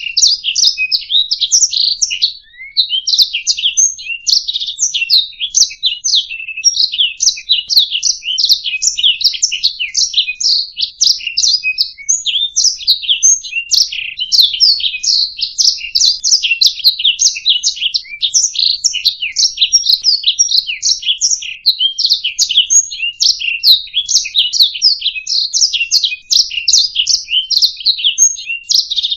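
Domestic canary singing a long, continuous song of rapid chirps and trills, high-pitched and loud, with only a brief pause about two and a half seconds in.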